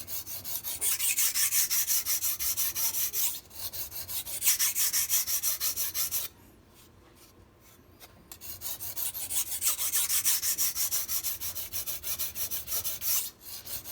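MAC chef knife's steel blade being drawn back and forth over a sharpening stone in short, quick, even strokes, a steady scraping that pauses briefly twice and stops for about two seconds midway. It is the edge being sharpened on one side until a burr forms.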